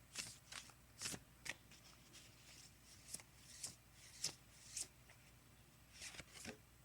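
Oracle cards being shuffled and handled: a faint, irregular string of short papery slides and flicks.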